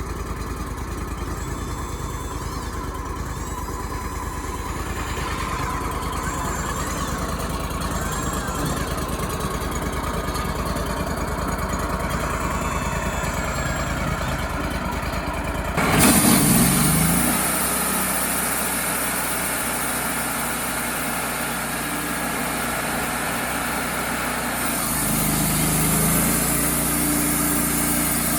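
Wood-Mizer LT35HD band sawmill's engine running steadily. About sixteen seconds in, the sound jumps abruptly louder with a high hiss as the band blade engages, and the engine's pitch drops as it takes load. The engine note shifts again near the end.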